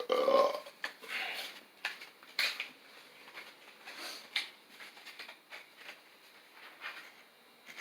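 Scattered light clicks and knocks from hand work on a bench vise's metal parts, about one every second, sparser near the end; a brief grunt-like vocal sound at the start.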